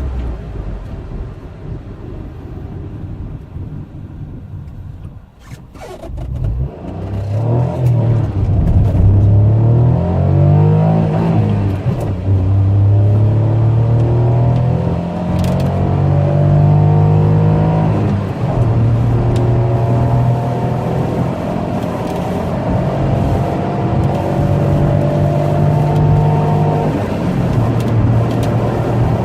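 Peugeot 108's 1.2 VTi three-cylinder petrol engine, quieter for the first few seconds, then pulling hard under full acceleration. The engine note climbs in pitch in each gear and drops at every upshift, and the gears last longer as speed builds.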